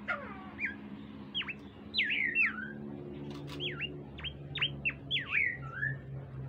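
Bimoli bird singing a quick run of sharp whistled notes, each sweeping steeply down in pitch and some hooking back up, over a low steady hum.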